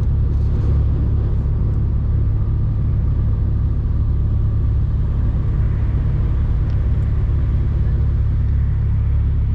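Mercedes-Benz Actros truck's diesel engine running, a steady low rumble.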